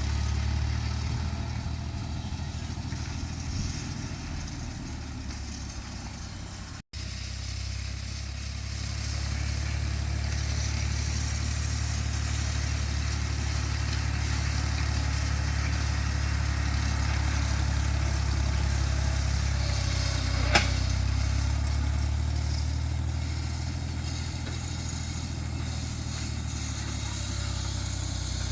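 Farm tractor engine running steadily while pulling a square hay baler. The sound cuts out for an instant about seven seconds in, and there is a single sharp click a little past twenty seconds.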